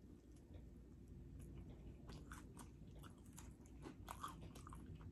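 Close-miked chewing and biting of fried chicken pulled off the bone: faint crunches and wet mouth clicks at irregular moments, over a low steady hum.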